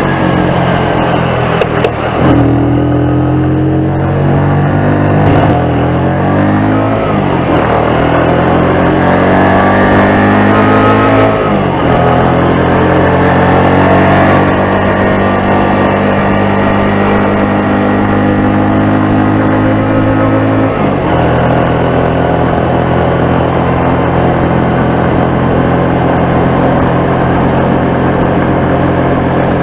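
Keeway Superlight 125 motorcycle engine running under way, its pitch changing with the throttle and gears: a jump up about two seconds in, a fall and climb in the first third, a long steady stretch, then a drop about two-thirds of the way through, all over a steady rush of air and road noise.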